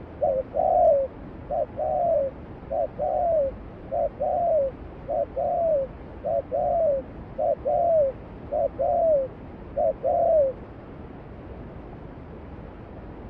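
A dove cooing: nine two-note phrases, each a short coo followed by a longer falling one, about one phrase a second, stopping a few seconds before the end. Under it, the steady rush of a mountain stream.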